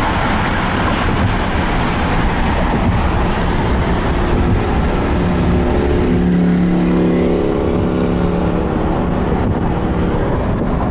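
Steady rumble and road noise of a car driving. A low humming tone joins about halfway through and fades out near the end.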